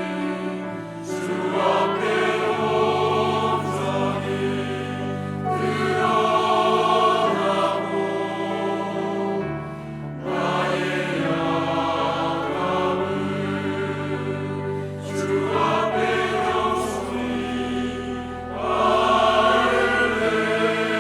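Church choir singing a hymn anthem in phrases of held chords, accompanied by organ, piano and a small orchestra of strings and winds, swelling louder near the end.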